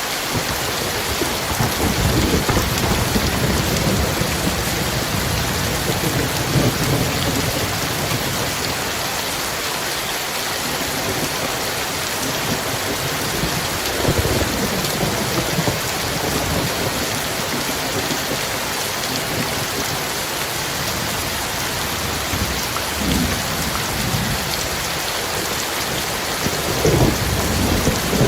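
Heavy rain falling steadily, with rolling thunder rumbling low several times.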